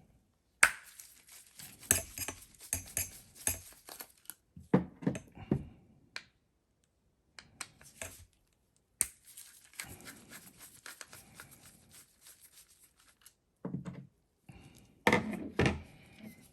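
Hand work on a disassembled starter motor's brush end: bursts of scraping and rasping of metal parts and tools, with sharp clicks and a few light knocks.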